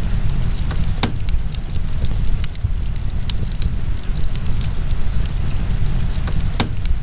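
Wood fire burning in a fireplace, crackling with scattered sharp pops over a steady low rumble. Two louder pops come about a second in and near the end.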